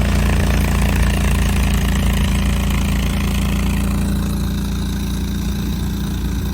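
Derette T800 mini skid steer loader's engine running steadily. The sound eases off slightly and loses some of its higher part about four seconds in.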